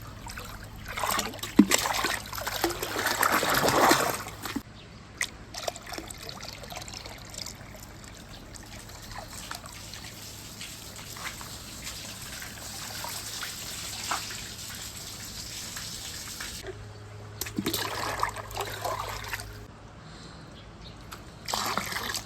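Water trickling steadily along a marble run's channels, with scattered clicks and knocks. It is louder and splashier about one to four seconds in and again near the end.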